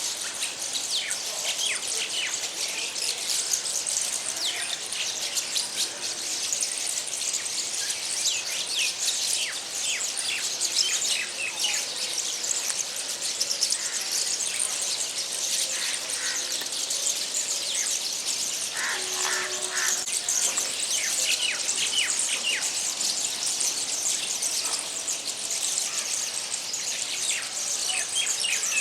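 A flock of small birds perched on a power line, chirping and singing nonstop in many overlapping short, high calls. A brief lower-pitched call stands out about two-thirds of the way through.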